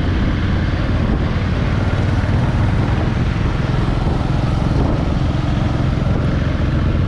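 Honda Africa Twin 1100's parallel-twin engine running at a steady pitch while riding, mixed with wind and road noise.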